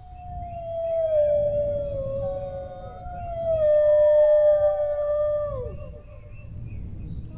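Several dogs howling together in long overlapping howls. The loudest starts high, slowly sinks and holds, then falls away sharply about six seconds in, while higher howls glide above it. A new howl starts near the end, over a low steady rumble.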